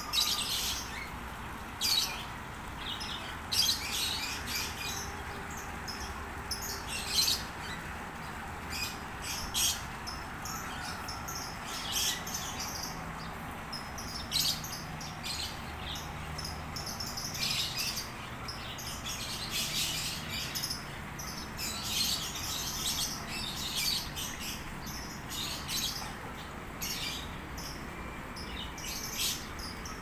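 Small aviary birds chirping and tweeting: many short, high calls at irregular intervals, over a steady background hiss.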